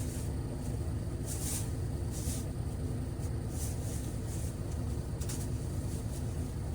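Thin masking plastic sheeting rustling and crinkling in short, soft bursts as it is handled and tacked around a ceiling fan, over a steady low background rumble.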